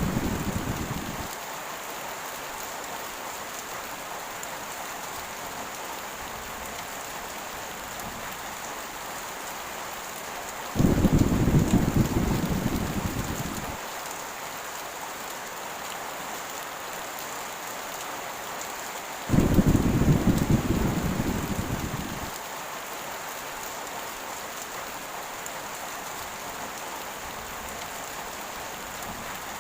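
Heavy rain falling in a steady hiss, with low rolls of thunder. One is dying away at the start, and two more come about 11 and 19 seconds in, each starting suddenly and fading over about three seconds.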